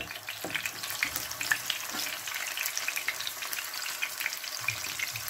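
Chicken chappal kebabs frying in shallow oil in a non-stick pan: a steady sizzle with many small crackling pops.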